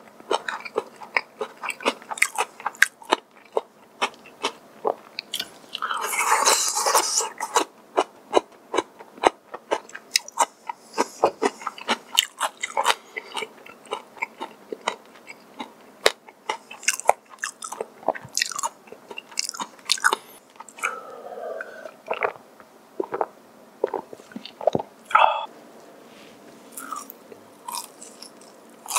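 A person chewing and crunching food close to the microphone: a steady run of crisp crackles and wet chewing, with a louder, longer burst of crunching about six seconds in.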